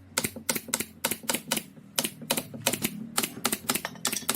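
A rapid series of sharp taps or knocks, about four to five a second with uneven spacing, over a low steady hum.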